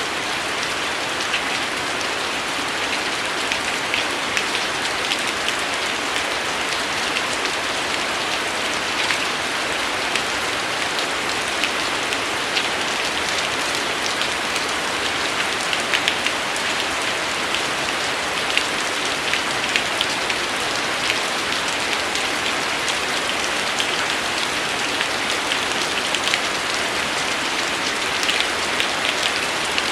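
Steady rain falling: an even, dense hiss with many small, distinct drop strikes scattered through it.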